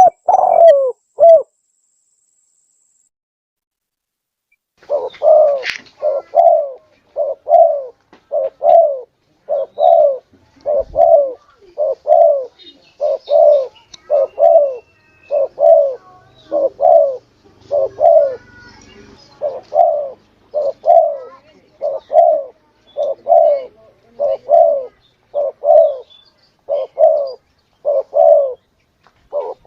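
Spotted dove (tekukur) cooing, as used for a bird-luring call. A few coos at the start, then a gap of about three seconds, then short, even coos repeated about three every two seconds.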